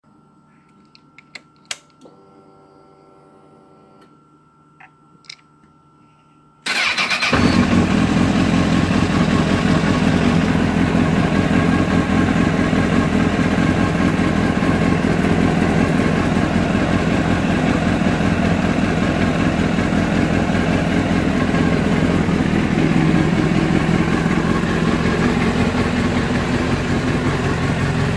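A 2004 Honda 1000 sport motorcycle being started: a few clicks and a faint hum as the ignition is switched on, then about six and a half seconds in the engine fires and settles into a steady idle.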